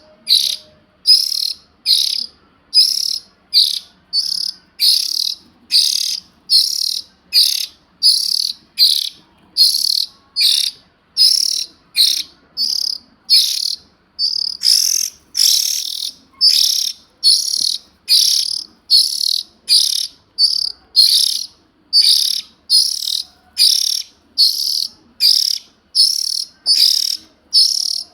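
Juvenile oriental magpie-robin giving harsh, raspy begging calls, repeated evenly at about two calls a second.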